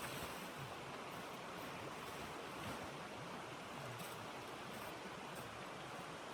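Steady rushing blizzard wind, an even hiss with a few faint ticks scattered through it.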